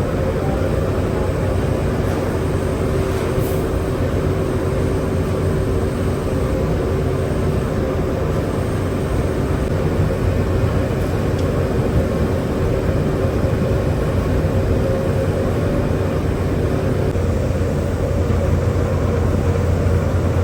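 Steady running of heavy factory machinery: a loud, unbroken low hum with a constant mid-pitched tone over it.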